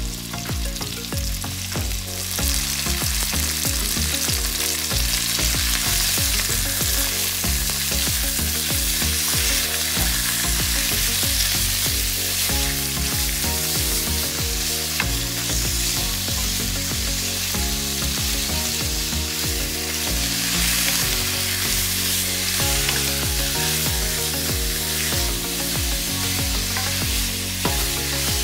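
Sliced pork shoulder sizzling in hot oil in a nonstick wok while a wooden spatula stirs it; the sizzle grows louder about two seconds in and then holds steady. Background music plays underneath.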